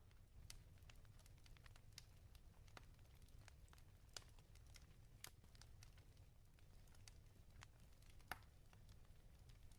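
Wood fire crackling in a fireplace: faint, irregular pops and snaps, a sharper pop near the end, over a low steady rumble.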